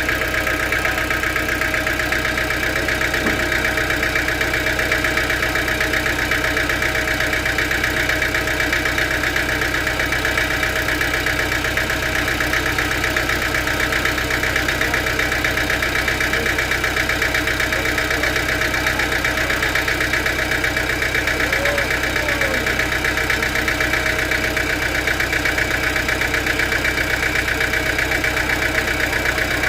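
Sawmill machinery running steadily: an even mechanical drone with a high steady whine and a fast pulsing, holding unchanged.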